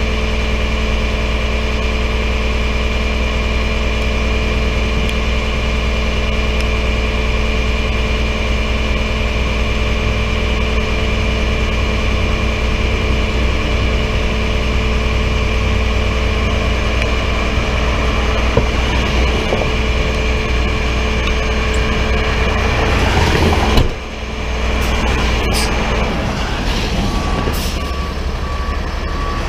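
Tow truck engine running steadily. About three-quarters of the way in the sound swells briefly and then drops off suddenly. Near the end a reversing beeper starts its evenly spaced beeps.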